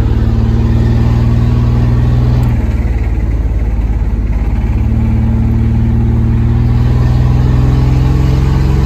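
Chevy S10 pickup's engine running loud and steady, its pitch dropping slightly about two and a half seconds in and then holding.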